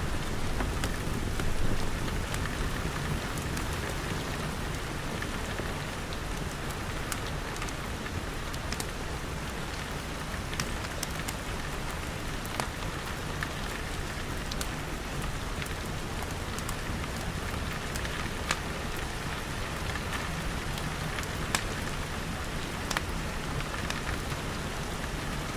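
Steady rain pattering on glass walls and roof, with scattered sharp pops and crackles from a wood fire.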